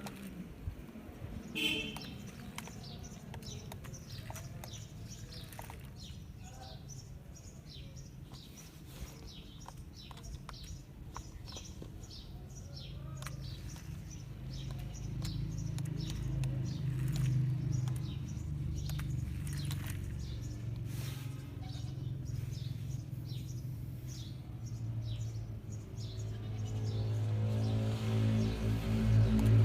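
Birds chirping over a low steady motor hum, which grows louder in the last few seconds.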